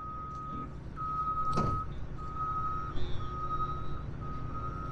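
Backup alarm on heavy equipment beeping steadily, about one beep a second, over a running diesel engine. A short hiss cuts in about a second and a half in.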